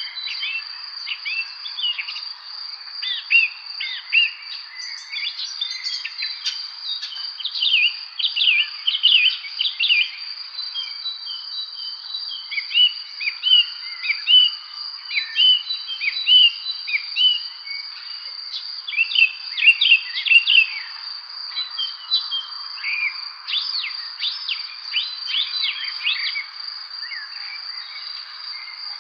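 Songbirds chirping and singing in short, quick phrases that come in busy clusters, over a steady high-pitched drone that runs unbroken underneath.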